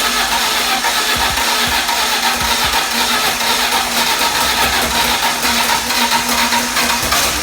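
BMW E36's freshly swapped M43 four-cylinder engine running steadily at idle shortly after starting, on the first runs after the engine swap.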